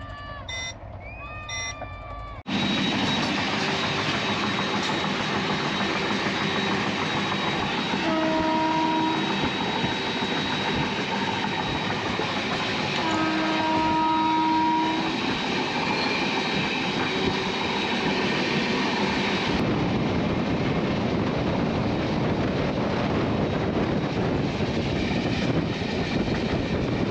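Express passenger train running at high speed: a loud, steady rush of wheel, rail and wind noise. The train's horn sounds twice, a short blast about eight seconds in and a longer one about five seconds later.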